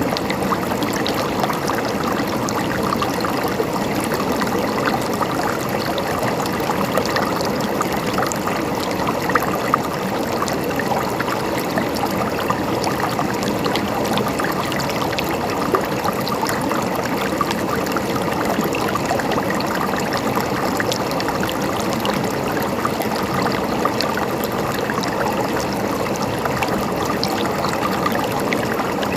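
A stream of water running and gurgling steadily, with no let-up.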